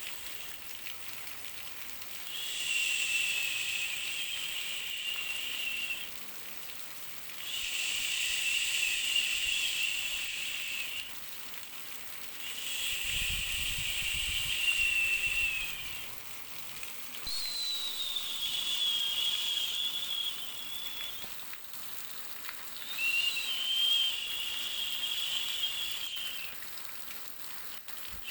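A high, whistling hiss that comes and goes in about five rounds of three to four seconds with short gaps between them; one round near the middle starts a little higher and slides down.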